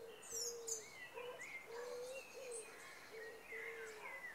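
Faint birdsong: a string of short, slightly bending calls, with a few high chirps near the start.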